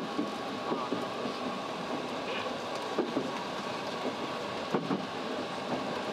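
Hankyu 6300 series electric train running, heard from inside the front car: a steady rumble and hiss of wheels on rail, with a few light knocks.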